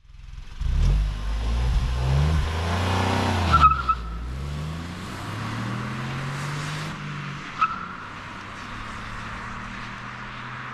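Kia Picanto GT's 1.0-litre turbo three-cylinder engine accelerating hard through the gears. The engine note climbs, drops at an upshift with a short high chirp about three and a half seconds in, then climbs again. A second chirp comes near seven and a half seconds, after which it runs steadier and quieter.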